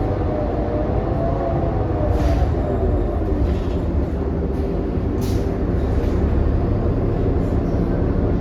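New Flyer XD40 diesel transit bus heard from inside while driving: a steady low drone with a wavering, warbling whine over it, strongest in the first few seconds, and a few faint rattles. This is the odd running sound the uploader calls weird and messed up for this coach.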